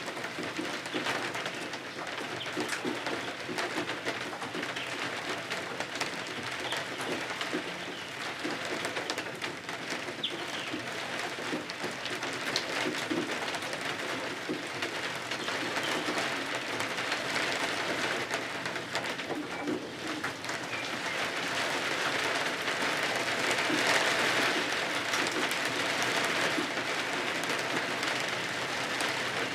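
Steady rain falling, a continuous even hiss that grows somewhat louder about two-thirds of the way through.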